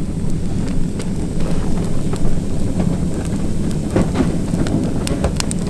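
Wind buffeting the microphone outdoors, a steady low rumble, with scattered light clicks and crunches.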